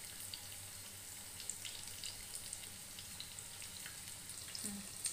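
Battered chicken pakoda pieces deep-frying in hot oil in a kadai on a medium flame: a steady, soft sizzle with scattered small crackles and pops.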